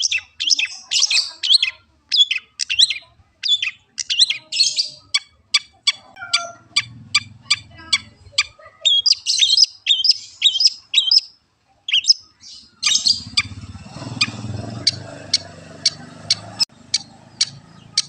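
Long-tailed shrike (cendet) singing: rapid runs of sharp chirps and short trills, with a stretch of evenly spaced single chirps at about three a second in the middle. From about 13 s to 17 s a low, steady noise sits under the song.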